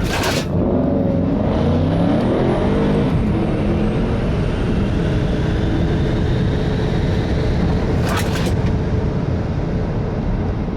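Tesla Model 3 Performance making an eighth-mile drag-strip run: loud steady road and wind noise, with pitches rising over the first three seconds as the car accelerates hard. A short sharp burst of noise comes about eight seconds in.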